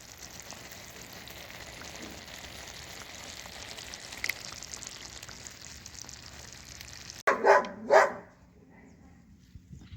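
A steady hiss runs for about seven seconds, then stops at a sudden cut. Right after it a dog barks twice, loudly, about half a second apart.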